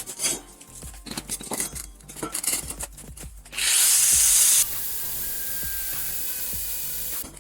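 Electric welding arc hissing steadily: it starts suddenly about halfway through, is loudest for the first second, then holds at a lower level until it cuts off near the end. Before that, scattered scraping and tapping on metal.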